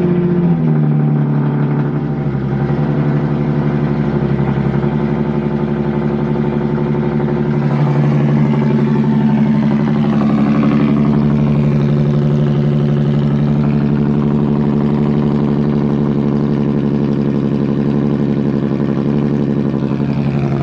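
Infiniti Q50 engine, just started cold after sitting for five days, running at a steady fast idle through its aftermarket Tomei exhaust. It is pretty freaking loud.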